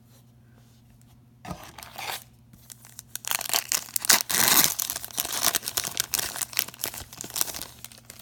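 A trading-card pack wrapper being torn open and crinkled, with a couple of short rustles and then a longer stretch of dense crackling, loudest about four seconds in.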